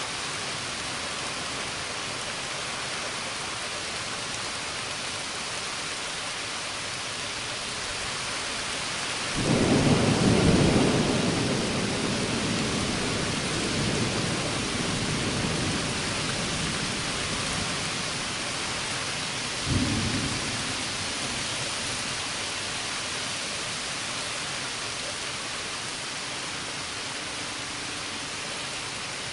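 Steady heavy rain hissing, with a loud thunder clap about a third of the way in that rumbles away over several seconds, and a shorter, sharper crack of thunder about two-thirds through.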